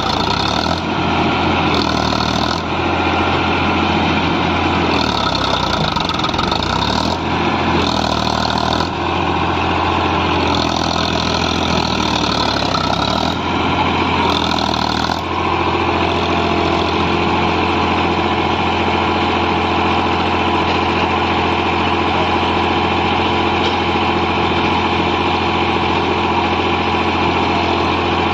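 Powertrac Euro 50 tractor's diesel engine running steadily, its note changing slightly about halfway through.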